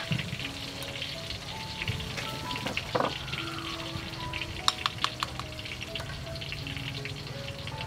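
Food sizzling as it fries in a hot wok, with a few sharp clinks of a metal spoon on the bowl and pan, one about three seconds in and several close together around five seconds in.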